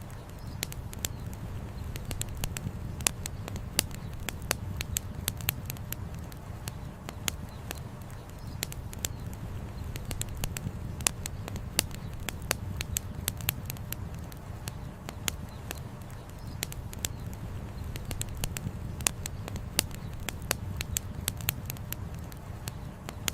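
Campfire burning, with the firewood crackling in many sharp, irregular pops over a steady low rumble.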